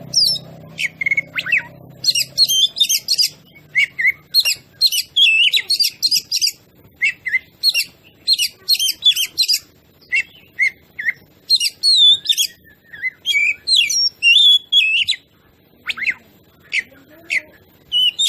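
Oriental magpie-robin (kacer) in full song: a rapid, varied string of whistled and chattering phrases with short pauses, growing sparser near the end.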